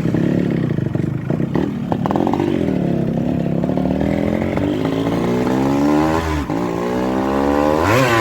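Yamaha RX 135 two-stroke single-cylinder motorcycle engine running under way, its pitch climbing steadily as it accelerates. The pitch dips briefly about six and a half seconds in, then climbs again.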